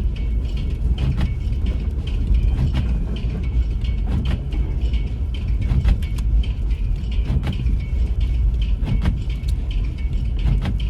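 Car driving on a snow-covered road, heard from inside the cabin: a steady low rumble of engine and tyres, with scattered sharp ticks and clicks throughout.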